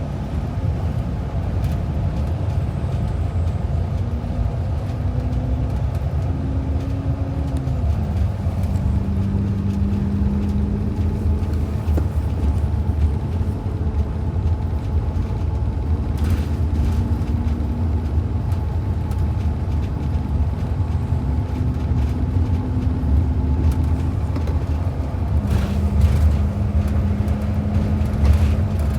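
Bus engine and road rumble heard from inside the cabin while the bus is driving. The steady engine note steps down in pitch about eight seconds in and again near the end.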